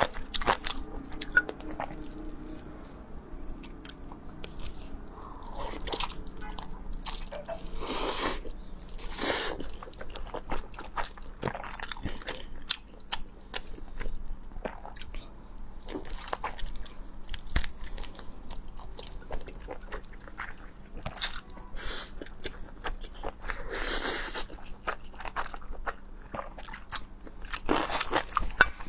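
Close-miked eating sounds: wet biting and chewing of a large sausage with sticky mouth clicks, and a few louder, longer mouth noises about 8, 9 and 24 seconds in.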